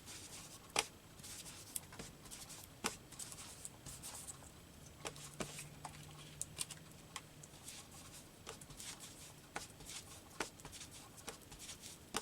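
Faint handling of paper cut-outs: light rustling with scattered small clicks and taps.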